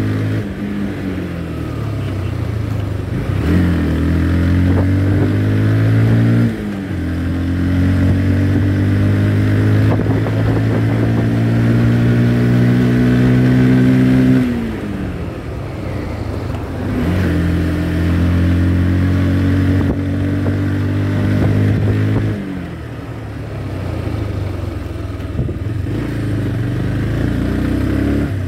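Motorcycle engine running at a steady pitch under way, dropping in pitch several times as the throttle is eased off, then picking up and holding again.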